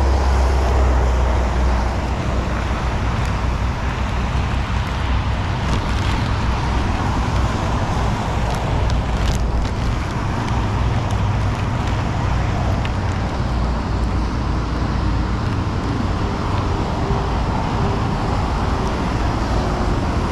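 Steady rain falling on water and on a plastic sheet, with a few drops tapping close by. Wind rumbles on the microphone, strongest in the first two seconds.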